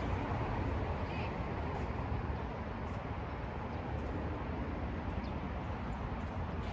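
Steady low rumbling background noise, with a couple of faint knocks about three and four seconds in.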